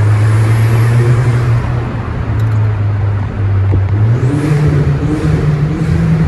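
Car engine and exhaust running loudly in a road tunnel, with road noise; the engine note climbs about four seconds in as the car accelerates.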